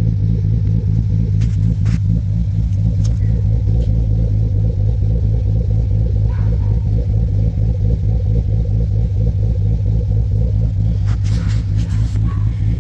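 Jeep SRT's freshly rebuilt V8, with new lifters and an upgraded cam, idling steadily with a low, even exhaust hum. A few faint light clicks sound over it.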